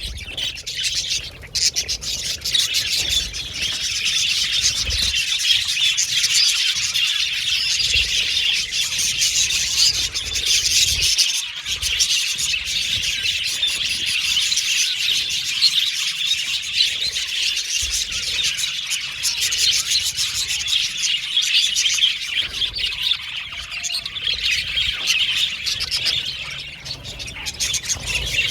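A flock of budgerigars (budgie parakeets) chattering and chirping continuously, many birds calling over each other at once.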